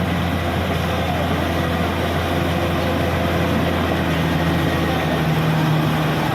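Diesel engine of a Caterpillar D6R XL bulldozer running steadily, with a low, even hum.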